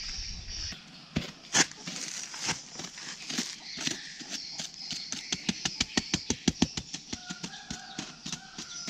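Rapid dry crackling and clicking, sparse at first and then coming several times a second, over a steady high chirring of insects.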